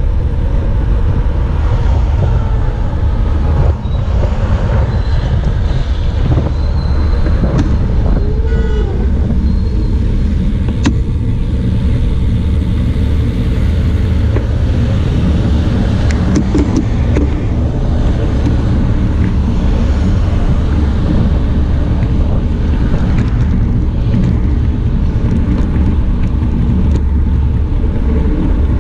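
Wind rushing over the microphone of a moving bicycle, loud and steady, with road traffic and cars going by.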